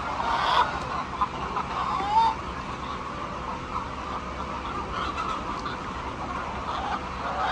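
A flock of chickens clucking and calling: many short overlapping calls, with a louder one about two seconds in.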